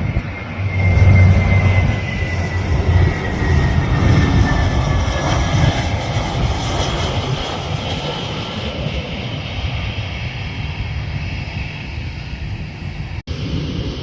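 Airplane's engines passing close by: a high whine slides slowly down in pitch over the first few seconds over a heavy rumble that is loudest near the start, then the sound gradually eases off. It cuts out for an instant near the end.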